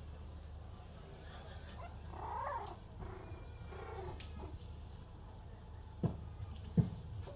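Cat meowing from a sound-desensitization recording, with one drawn-out call rising and falling about two seconds in and fainter calls after it. Two sharp thumps near the end are the loudest sounds.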